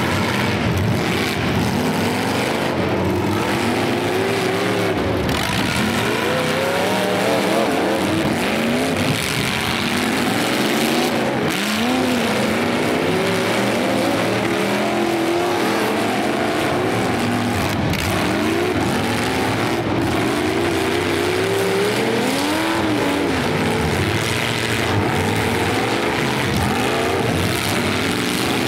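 Several demolition derby car engines revving hard, their pitch rising and falling again and again as the cars push and ram each other on the dirt.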